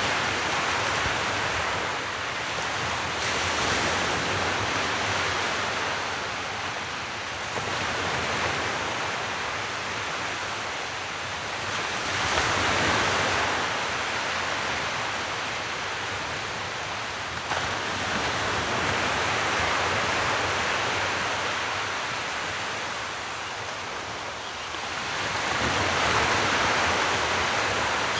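Sea waves washing onto a shore, a continuous rush that swells and eases in slow surges every several seconds.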